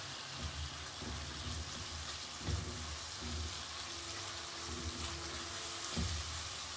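Oil sizzling steadily as tomato pieces and cumin seeds fry in a non-stick wok. A wooden spatula stirs and scrapes through them, with a few soft knocks against the pan.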